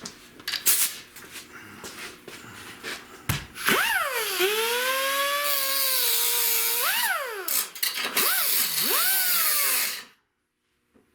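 Handling clicks and knocks, then about three and a half seconds in a high-speed rotary cutting tool spins up with a whine. Its pitch sags as it bites into the rusty sheet metal of the door corner and climbs again as it eases off, several times, before it stops abruptly near the end.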